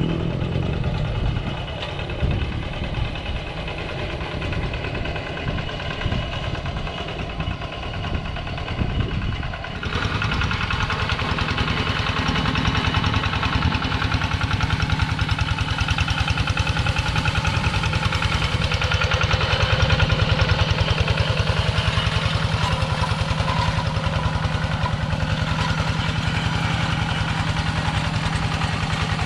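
Kubota two-wheel walk-behind tractor's single-cylinder diesel engine running with a steady chugging pulse. About ten seconds in it gets louder and harsher and stays that way.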